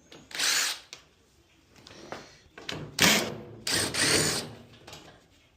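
Power drill/driver backing screws out of a dryer's sheet-metal panel, running in three short bursts: one about half a second in, then two close together around three and four seconds in.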